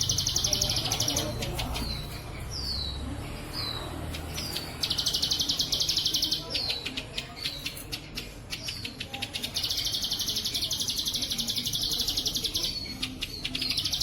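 Ciblek sawah (a small prinia) singing its 'bren cililin' song. Three long, rapid, high buzzing trills alternate with runs of short down-slurred chips and clicks.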